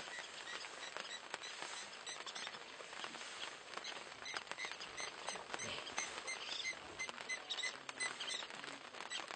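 African wild dogs feeding at a carcass: scattered clicks and crunches of tearing and chewing, with a short high chirp repeating about twice a second.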